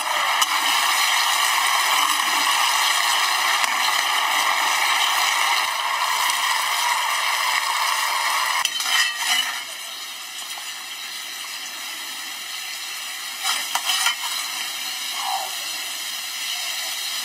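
Fish and sauce sizzling in a stainless wok, a steady hiss that drops quieter about halfway through. A ladle knocks and scrapes against the wok twice, around the middle and again a few seconds later.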